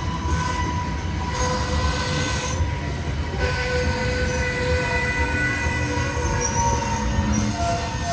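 Norfolk Southern freight train's cars rolling past with a steady low rumble. Thin, shifting wheel squeals come and go over it.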